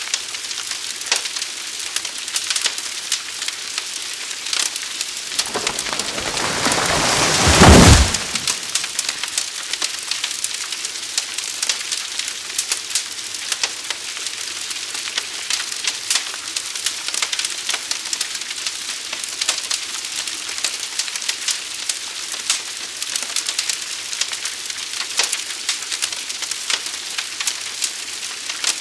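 Fire crackling and popping over a steady hiss, with many small sharp pops. About five and a half seconds in, a rushing swell builds for a couple of seconds to the loudest point, then stops abruptly.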